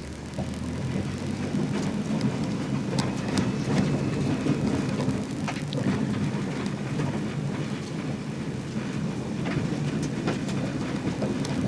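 Subaru rally car's engine running steadily, heard from inside the cabin, over a constant patter with scattered ticks on the body of the car.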